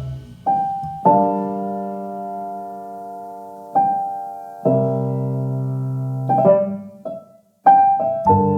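Slow, soft piano music: sustained chords struck one at a time, each ringing and fading before the next, with a short pause near the end.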